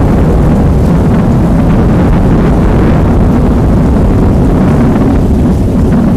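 Rain with a thunder rumble, bass boosted and overdriven into a loud, steady, distorted low roar.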